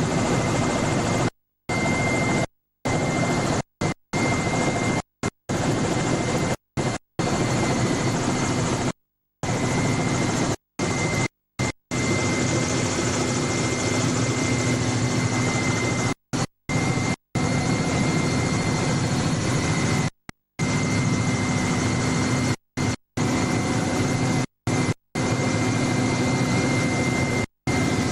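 Helicopter noise: a steady, dense engine-and-rotor sound with a constant high whine, cut again and again by abrupt audio dropouts to dead silence lasting a fraction of a second.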